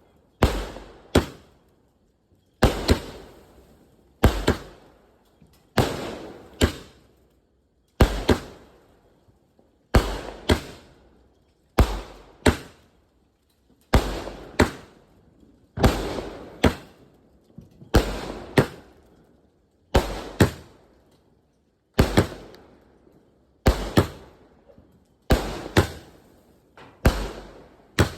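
A 30-shot aerial firework cake firing shot after shot, about one every two seconds. Each shot is a sharp bang followed within about half a second by a second bang, then a fading crackling tail.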